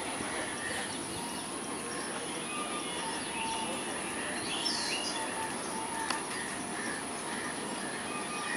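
Birds chirping with short repeated calls over a steady outdoor background noise, with one sharp click about six seconds in.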